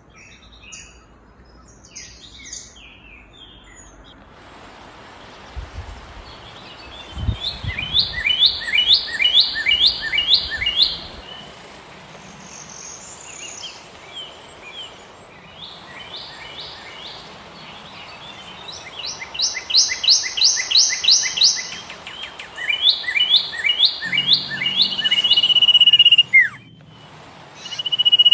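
Bird song: several runs of quick, repeated falling chirps, about five a second, with a long steady whistle near the end.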